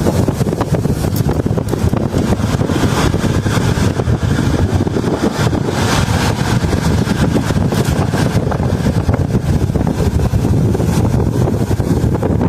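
Steady low rumble of highway traffic, mixed with wind noise on the microphone.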